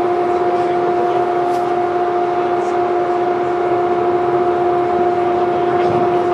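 A loud, steady hum at one unchanging pitch over a background rush of noise.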